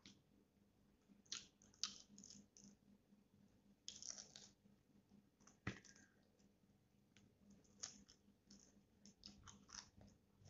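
Quiet eating sounds: chewing with scattered short mouth clicks and smacks, and one sharper click about halfway through.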